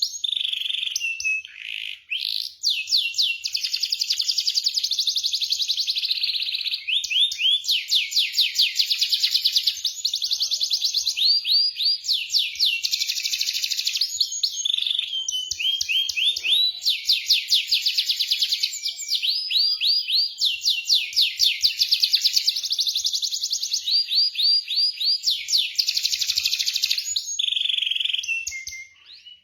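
Domestic canary singing a long, high-pitched song of rapid rolling trills, phrase after phrase with only brief breaks, tailing off near the end. This rolling song is the kind played as a lure to set a silent canary singing.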